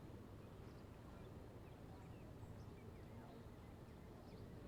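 Near silence: faint outdoor background noise with a steady low hum.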